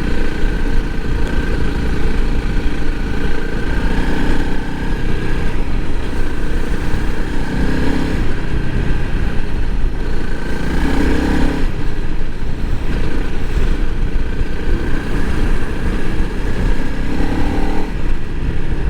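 Honda CRF300L Rally's single-cylinder engine running steadily under way, its pitch rising and falling a little with the throttle as the bike is ridden through sand, over a constant low rumble of wind on the microphone.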